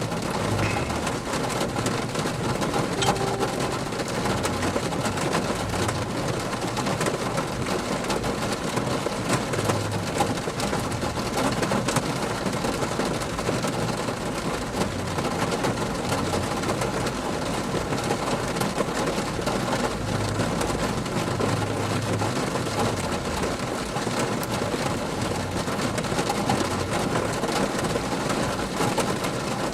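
Steady rain falling, an even hiss of noise without pause.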